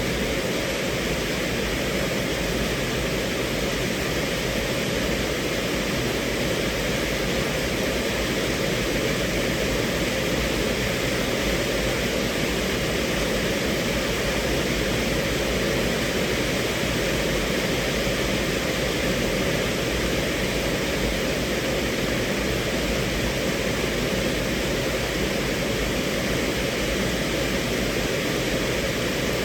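Steady rain falling on a car's roof and windows, heard from inside the cabin as an even, unbroken hiss.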